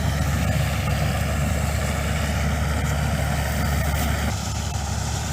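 Combine harvester running steadily under load, a low engine drone with a broad mechanical rush over it, easing slightly about four seconds in.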